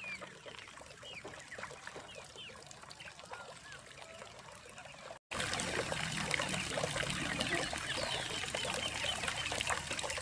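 Water trickling and pouring, with short chirping bird calls in the first half. After a brief cut about halfway through, the water gets louder and denser.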